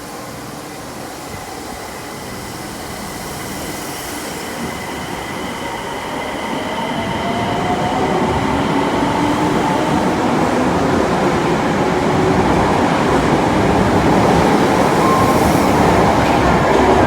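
Osaka Metro Tanimachi Line train running at the platform, getting steadily louder with a motor whine that rises in pitch as it picks up speed, typical of a train pulling out of the station.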